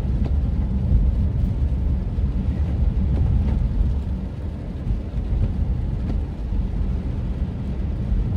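A car driving on wet roads in the rain: a steady low rumble of road and engine noise.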